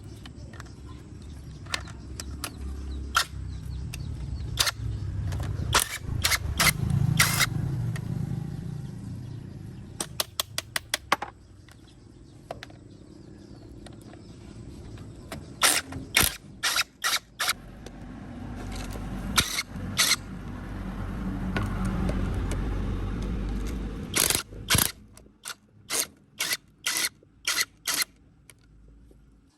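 Metal tools clinking and knocking on tractor brake parts, with a quick run of ratchet-like clicks about ten seconds in and a series of about two knocks a second near the end. Behind them a low rumble swells and fades twice.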